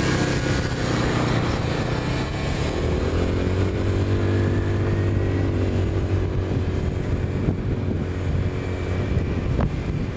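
An engine running steadily, its note rising a few seconds in and then holding.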